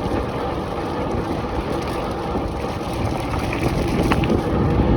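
Wind buffeting the microphone of a bicycle rider moving at speed, a steady low rumble with road and tyre noise under it, growing a little louder about three and a half seconds in.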